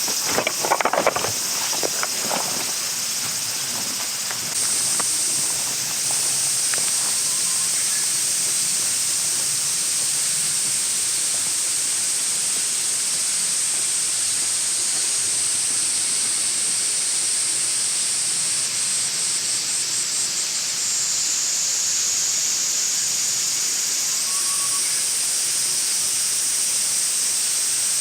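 Insects droning in a steady high-pitched chorus that swells and fades a few times, with some rustling and clicks in the first couple of seconds.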